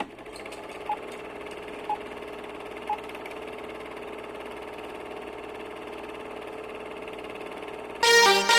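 Three short, high electronic beeps a second apart over a steady hum, then electronic dance music starts loudly near the end.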